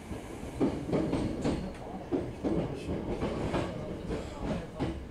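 Electric commuter train running on the Hankyu Arashiyama Line, heard from on board: a steady low rumble with a series of knocks and clatters as the wheels pass over rail joints.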